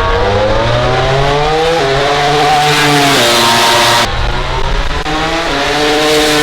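MotoGP racing motorcycle engine accelerating hard. It is loud, and its pitch climbs and drops back at each upshift, a few gear changes in quick succession.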